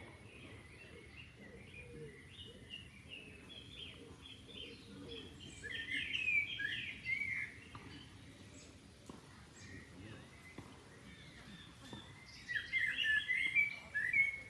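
Songbirds singing and chirping in quick, varied phrases, with two louder bursts of song, one about six seconds in and one about thirteen seconds in, over faint low background noise.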